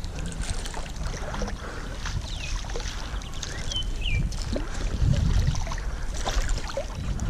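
Water sloshing and splashing around a kayak on a river, with wind buffeting the microphone and scattered small knocks. A few short falling chirps come through between about two and four seconds in.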